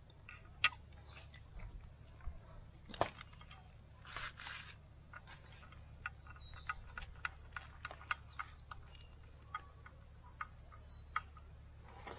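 Faint bush ambience: a bird gives short runs of descending high chirps several times, over scattered small clicks and a couple of brief hisses.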